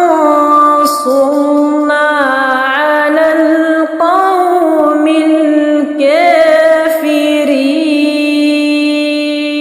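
A woman's voice reciting the Quran in slow, melodic tartil chant, with long drawn-out notes and ornamented turns in pitch, ending on a long held note.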